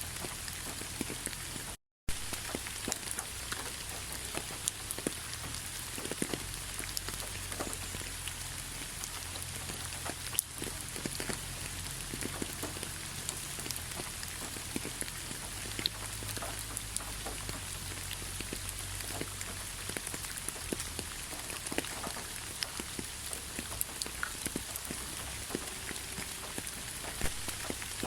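Steady rain falling, with many separate drops striking close by as sharp ticks over an even hiss. There is a brief dropout to silence about two seconds in.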